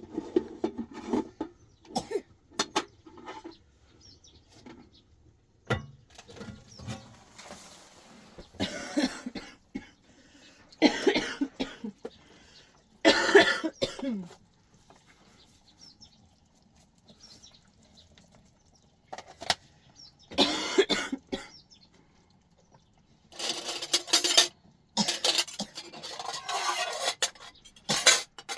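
A woman with a cold coughing hard in repeated bouts, the loudest about halfway through, with a few short clicks between bouts.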